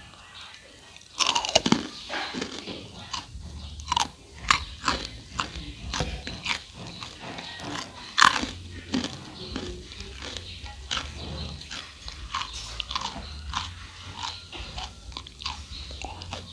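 Close-up crunching of crispy fried rice cakes (Cambodian bay kdang, rice crust) being bitten and chewed. There is a loud crunch about a second in, then steady crackling chews, with another sharp crunch near the middle.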